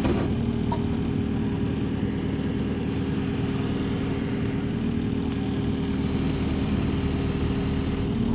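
An engine idling steadily with a constant low hum, most likely the lifting machine's engine running while the load is held.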